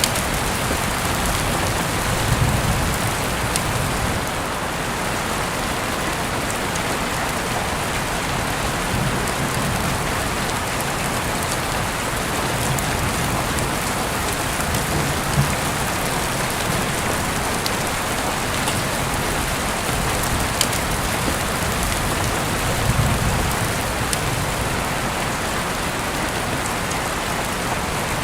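Steady rain falling on a hard surface, a dense even hiss with occasional sharp drop ticks. A few soft low rumbles swell up now and then beneath it.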